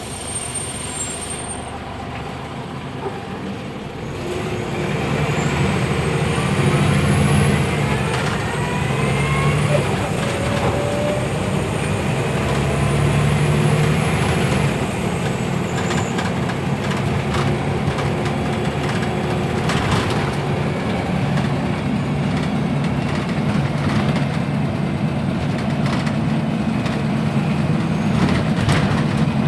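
Scania OmniLink CL94UB city bus running and pulling away. The engine grows louder about four seconds in, and rising whines follow as the bus gathers speed, with a few sharp clicks or rattles later on.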